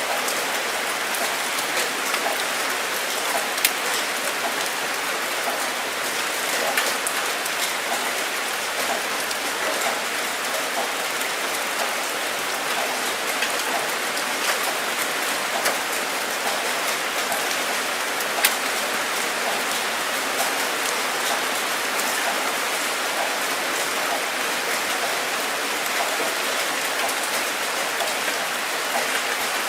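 Steady rain falling, an even hiss scattered with the sharp taps of individual drops striking a surface.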